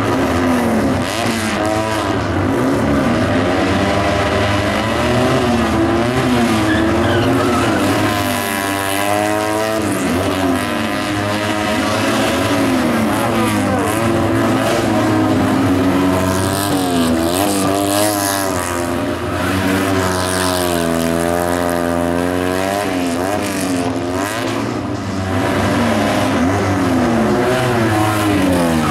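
Tuned classic Fiat 500's air-cooled two-cylinder engine revving hard and falling back again and again as the car is driven through tight turns.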